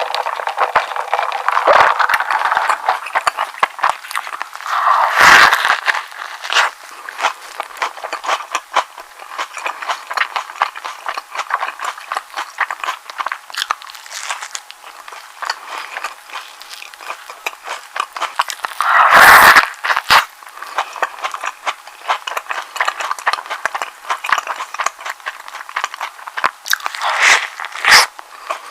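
Close-miked chewing and biting of a thick egg sandwich, a steady run of small wet crackling mouth sounds with a few louder bites, about five seconds in, around nineteen seconds and near the end.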